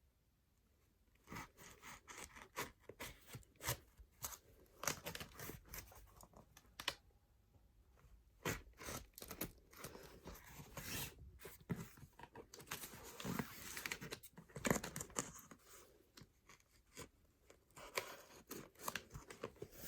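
A shipping box and its packaging being opened by hand: tape and paper tearing, with crinkling and rustling in irregular bursts starting about a second in.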